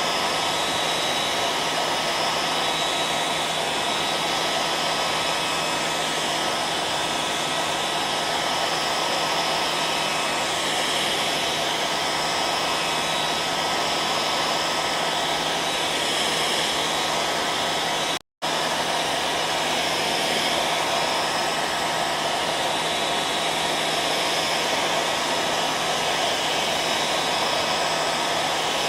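Hair dryer running steadily: an even blowing noise with a faint constant whine. It cuts out for a split second about two-thirds of the way through, then carries on unchanged.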